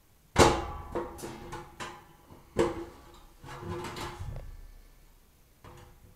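Stainless-steel chimney pipe sections knocking and scraping together as one is fitted onto the next. There is a sharp metallic clank about half a second in and another at about two and a half seconds, each ringing on briefly, with smaller knocks between.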